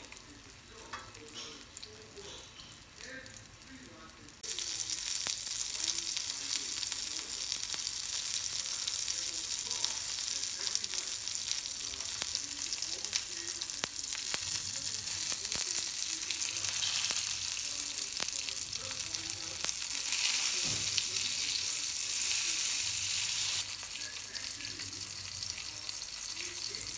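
Oil sizzling steadily in a nonstick frying pan around battered tofu and Spam stacks, with a few light clicks of a spatula against the pan as the pieces are turned. The sizzle jumps louder about four seconds in and drops back a few seconds before the end.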